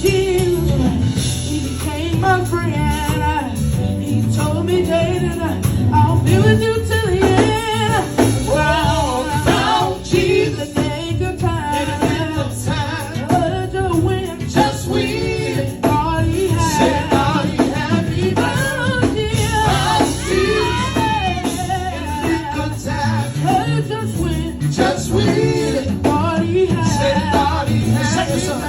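Gospel music with singing voices over a steady band accompaniment, a tambourine keeping time.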